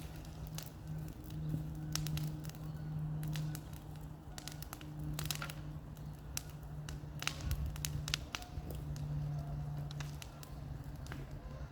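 Bonfire burning, with irregular sharp crackles and pops. Under it runs a steady low hum that drops out briefly several times.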